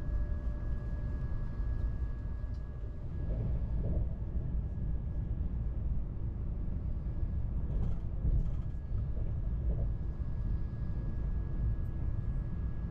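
Steady low rumble of a Frecciarossa 1000 (ETR 400) high-speed train running along the line, heard from inside the passenger coach, with a faint steady high whine over it.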